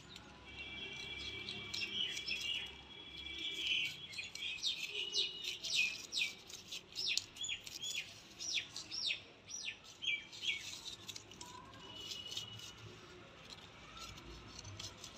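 Small birds chirping: a high, steady trill over the first few seconds, then a quick run of short, sharp chirps through the middle, with a few more later on.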